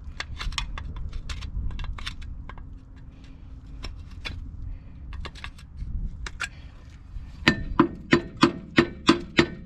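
Light clicks and knocks of metal parts being handled, then, about three-quarters of the way through, seven sharp metal-on-metal strikes, about three a second, each ringing briefly. This is bent steel on the front of a track loader being tapped and handled while it is checked for damage.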